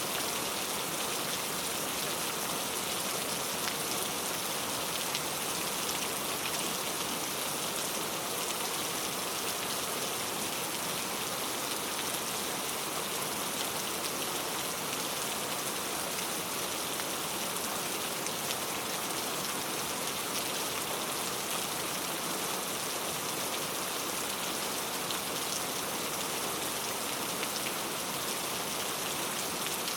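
Steady rainfall, an even hiss of rain with many small drops pattering on a surface.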